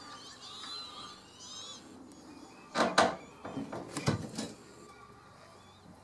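Wetland birds calling with many short, high chirps that rise and fall, then a few loud knocks around the middle.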